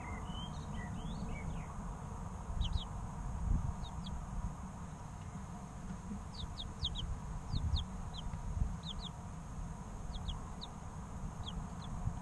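Three-week-old chicken chicks peeping: short, high, sharply falling peeps, often two in quick succession, scattered throughout, with a few softer curved calls in the first second or so, over a steady low rumble.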